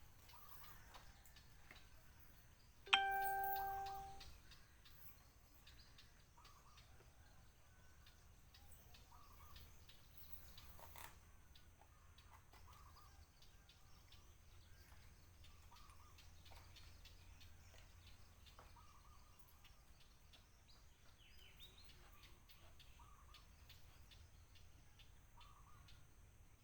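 A single ringing chime-like ding about three seconds in, dying away over a second or so, over faint background with small bird-like chirps.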